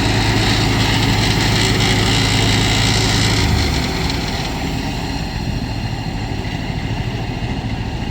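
An engine running steadily; about three and a half seconds in its sound changes and drops a little, then it runs on.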